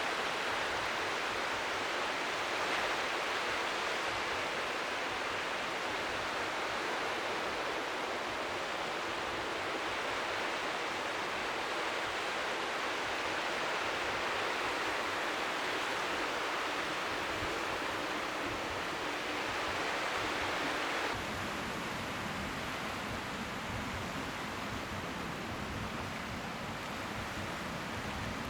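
Strong wind blowing steadily at the seashore, an even hiss with waves lapping faintly beneath it. About three-quarters of the way through, the sound turns deeper and slightly quieter.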